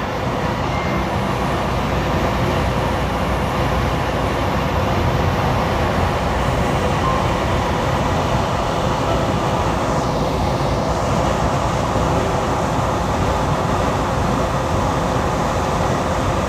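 Steady engine and road noise of a semi-truck heard from inside its cab while driving at speed.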